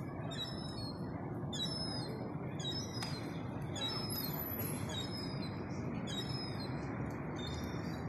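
Birds chirping: many short, high chirps in quick succession, over a steady low hum of town-centre traffic.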